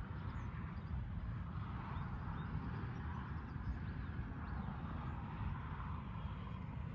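Steady outdoor background noise: a low, unsteady rumble with a fainter higher hiss, and a few faint high chirps.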